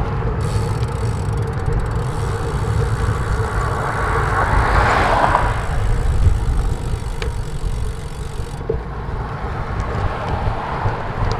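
Wind buffeting the microphone on a moving bicycle, a steady low rumble throughout. A motor vehicle passes on the adjacent road about five seconds in, a swell of road noise that rises and fades.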